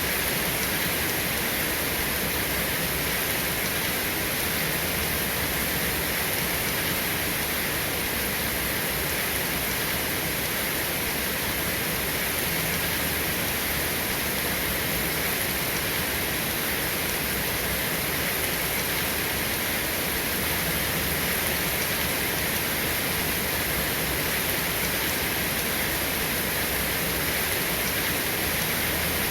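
Steady rain, an even hiss with no thunder or separate drops standing out.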